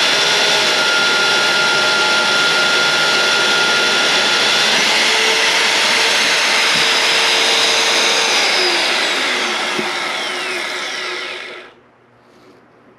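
Magnetic-base drill with a 13/16-inch annular cutter running loudly, boring through steel plate. About eight seconds in its pitch slides downward as the motor winds down, and it stops near the end.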